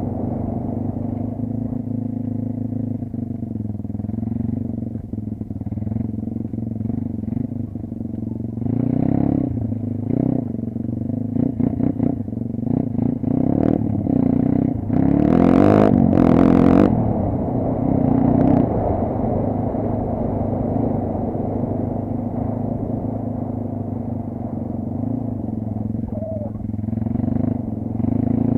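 Kayo off-road motorcycle engine running on a forest ride, its pitch rising and falling with the throttle, with clattering over rough ground. A louder rushing noise comes a little past halfway.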